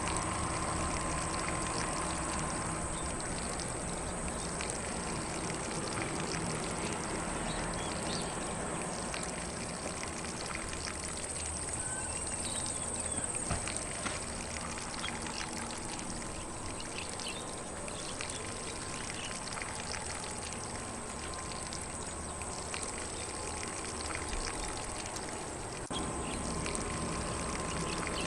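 Lawn sprinkler spraying water onto grass in a steady, even hiss, with faint bird calls.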